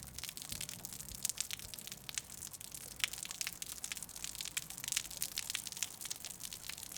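Rain ambience: a steady soft hiss of rain with many irregular drop ticks and crackles, heard on its own between music tracks.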